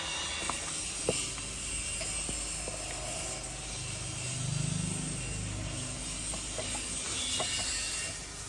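Workshop background noise with a few light clicks of hand tools, and a low hum that swells and fades about four to five seconds in.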